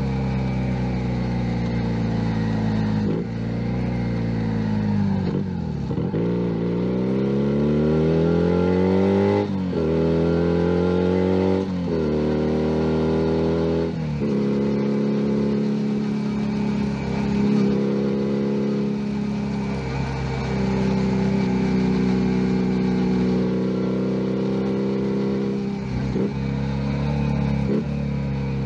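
Junak M11 Cafe 125 cc motorcycle engine while riding. For the first half it pulls up through the gears, its pitch climbing and then dropping at each shift; after that it holds a steady cruise.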